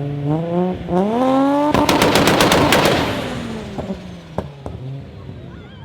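Car engine revving up in two quick rising blips, then a rapid string of loud exhaust pops and bangs, about ten in a second, as the revs are let go; a few scattered pops follow as it settles.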